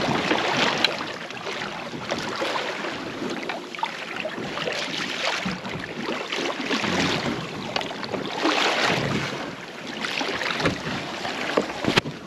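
Wind buffeting the microphone and water washing against a small boat's hull, swelling and easing every second or two. A single sharp knock near the end.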